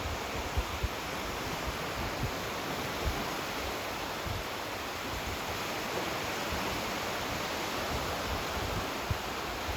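Sea surf washing steadily onto a sandy beach, a continuous rushing noise, with a few brief low thumps scattered through it.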